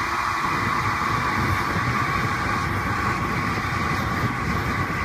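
Home-built forced-air LP gas burner firing, a steady rushing noise of gas and blown air burning with a low, unsteady rumble underneath. Its air feed has been opened up and the flame is burning better.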